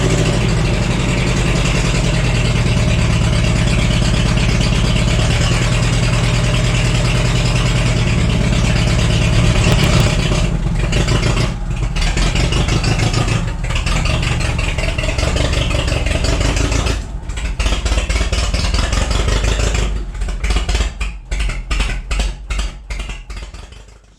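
Old forklift's spark-ignition engine running steadily, then from about ten seconds in cutting out briefly again and again, the dropouts coming faster near the end as it dies away. The forklift has a running problem that the owner puts down to misfiring.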